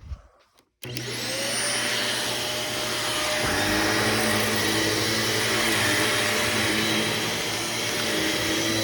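Shark Navigator NV26 upright vacuum cleaner switching on about a second in, its motor whine rising and settling into a steady run, with a low thump a few seconds later after which a lower hum joins. It runs with its filters freshly cleaned and is said to run much better.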